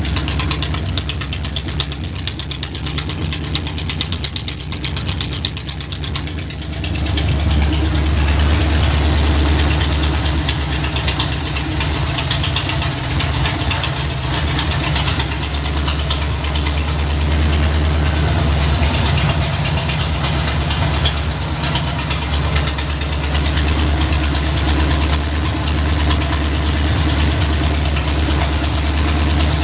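Chevy 305 small-block V8 running steadily, getting louder about seven seconds in.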